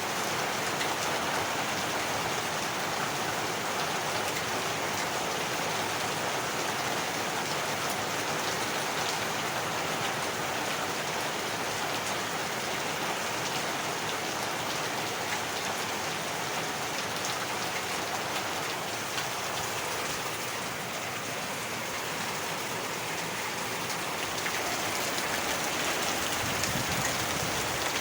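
Heavy rain falling steadily, an even rushing hiss of drops on surfaces. A low rumble joins beneath it near the end.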